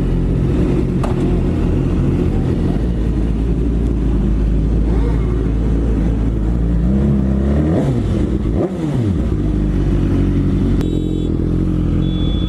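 Motorcycle engine running steadily, with another engine rising and falling in pitch as it passes about eight seconds in. A brief high beep sounds near the end.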